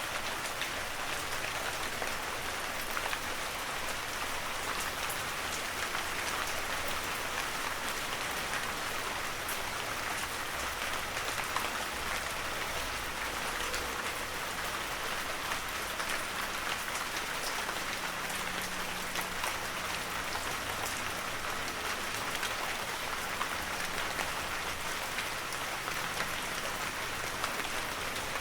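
Heavy rain falling steadily, a dense even hiss of countless drops with fine pattering and no letup.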